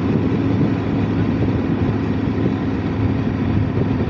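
Touring motorcycle's engine running at a steady pace while riding, over a constant hiss of wind and road noise.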